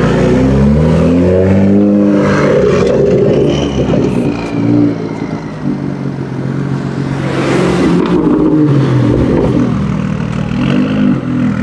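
BMW M2 MotoGP Safety Car's straight-six engine revving as the car pulls away, its pitch rising and falling several times before settling into a steadier drone. Near the end the BMW M5 F90 MotoGP Safety Car's twin-turbo V8 revs up as it moves off behind it.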